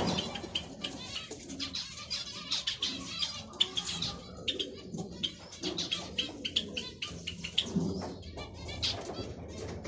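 Zebra finches calling, a rapid, irregular string of short, sharp chirps from several birds.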